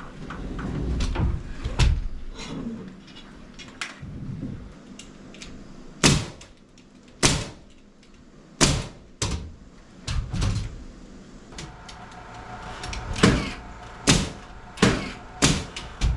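A series of about ten sharp, separate knocks into wooden framing as a rafter is fastened in place, some coming in quick pairs. A steady machine hum starts about halfway through.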